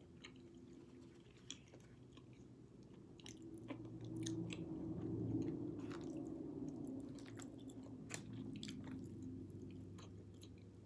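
A person chewing food, with scattered soft mouth clicks and smacks, over a faint steady low hum.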